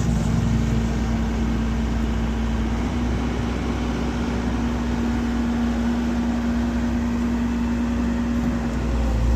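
Vehicle engine running steadily at a constant speed, a low rumble with a steady hum, swelling slightly just before the end.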